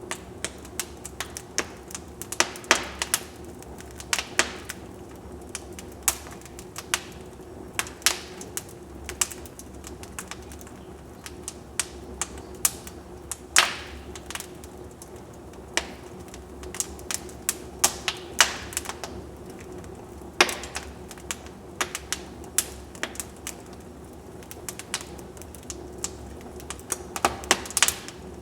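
Wood fire burning in a fireplace, crackling and popping at irregular intervals over a steady low hiss.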